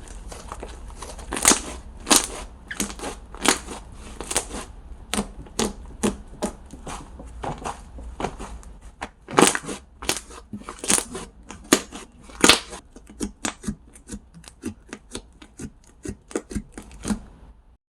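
Handmade slime being pressed and squished by hand, making irregular sticky pops and clicks that come faster, about three or four a second, in the last few seconds and then stop suddenly.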